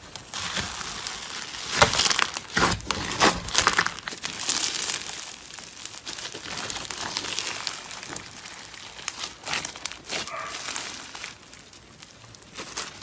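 Crunchy slime being pressed and squished, giving a dense crinkling crackle. It is loudest with sharp snaps about two to four seconds in and settles into a steadier crackle after that.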